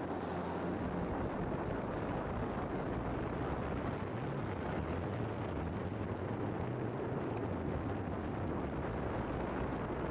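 Steady drone of model airplane engines, with wind rushing on the microphone.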